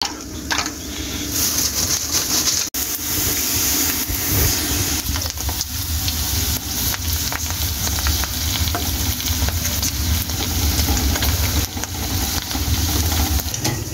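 Papad frying in hot oil in a steel wok, sizzling steadily, with a wire-mesh skimmer clicking and scraping against the pan as it stirs them. The sound cuts out for an instant about three seconds in.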